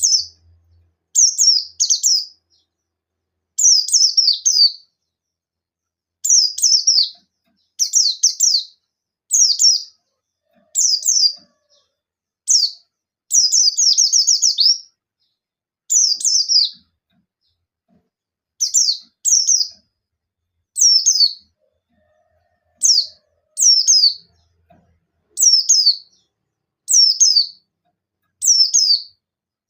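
Pleci buxtoni (white-eye) singing in quick bursts: clusters of short, high, rapidly falling chirps, one every second or two, with a few longer pauses.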